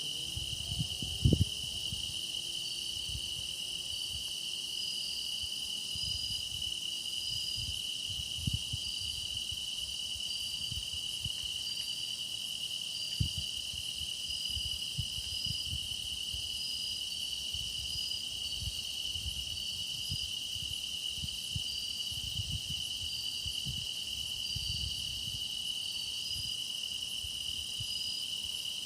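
Chorus of grass insects such as crickets: a steady high trill, with a second insect chirping in short repeated pulses above it. A few low thumps come through underneath, the loudest about a second in.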